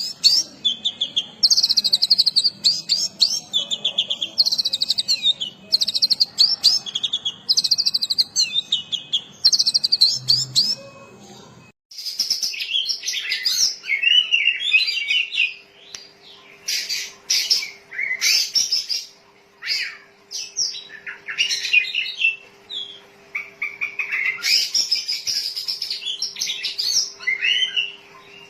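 Oriental magpie-robin (kacer) singing a varied song of quick whistled phrases rich in learned 'isian' fill-in. About twelve seconds in, the recording cuts to a denser, more varied passage of song over a faint steady hum.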